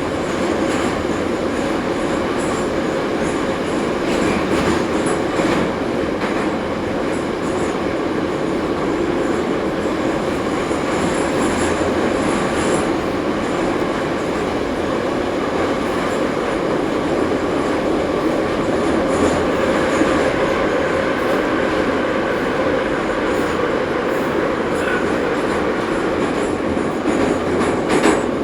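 Ezh3 metro train running between stations, heard from inside the car: a steady loud rumble from the wheels and running gear, with occasional faint clicks from rail joints.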